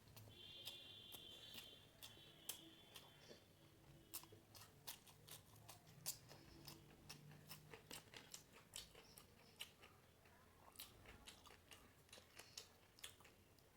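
A person chewing and crunching food close to the microphone: faint, irregular crunches and mouth clicks, a few a second.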